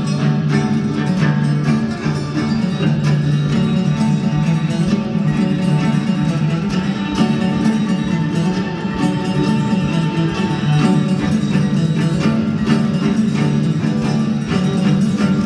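A band playing music, continuous and steady in level throughout.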